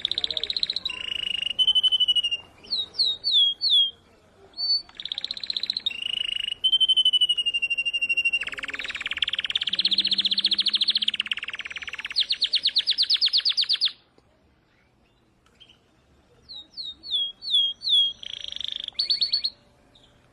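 Canary singing: clear whistled notes and quick repeated downward slurs, then long fast rolling trills. It stops for about two seconds past the middle, then starts again with more slurred notes.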